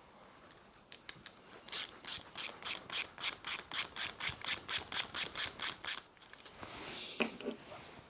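Ratchet clicking steadily, about four clicks a second for some four seconds, as a fastener on a lawnmower's plastic carburettor is run in but not yet done up tight.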